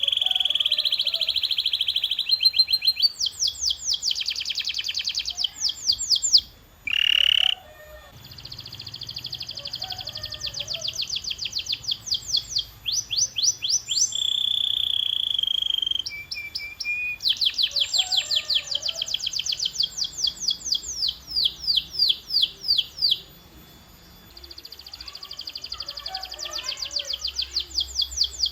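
Domestic canary singing a long song: fast trills of repeated sweeping notes alternate with held whistled tones, with a short break about a third of the way in and another near the end.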